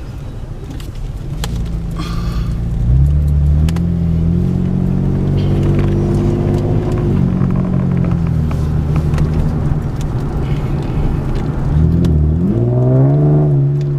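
2015 Chevrolet Camaro's 3.6-litre V6 running with its mufflers deleted, accelerating: the exhaust note climbs about three seconds in, holds, eases off around seven seconds, then dips and climbs again near the end.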